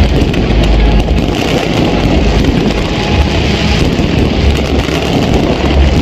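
Dense, continuous barrage of exploding fireworks: a steady rumble with rapid crackling throughout and no single bang standing out.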